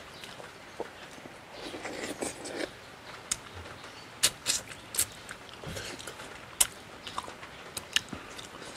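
A man eating frog curry with his hands close to the microphone: wet chewing and lip-smacking, with a string of sharp smacks and clicks from about three seconds in.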